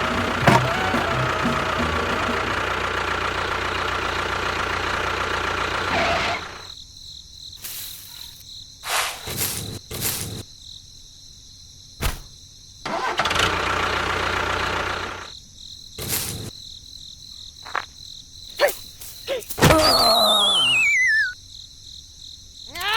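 A motor drones steadily for about six seconds and stops. Clicks follow, then a shorter second run of the motor, and near the end a falling whistle.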